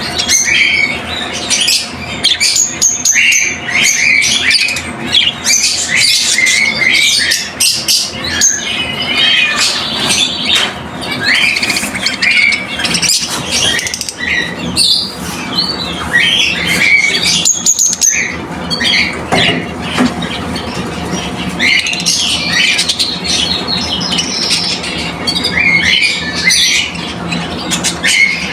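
Many caged shop birds chirping and squawking at once, a dense, unbroken chorus of short calls.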